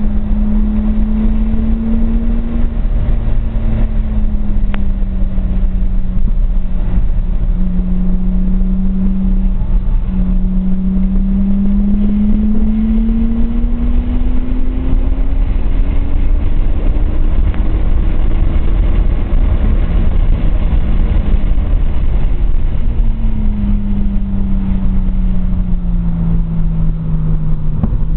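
Nissan RB20DET turbocharged straight-six in a 240SX at track speed, heard from inside the cabin. The engine note holds, dips, then climbs steadily through the middle as the revs rise, and falls away again near the end, over constant low road and wind noise.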